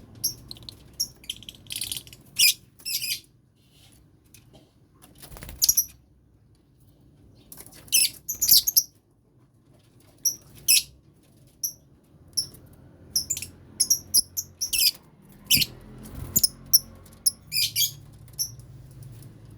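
Lovebirds in a colony cage chattering: many short, shrill chirps in irregular bursts, with an occasional rustle.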